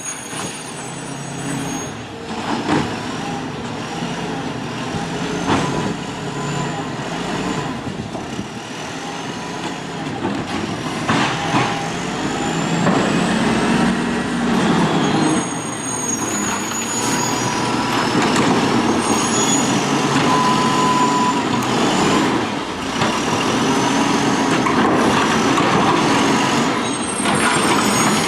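Automated side-loader garbage truck's engine revving to drive the hydraulics while the body's eject blade pushes out the full load. High whines rise again and again over the engine, with a few knocks and hisses, and the sound grows louder over time.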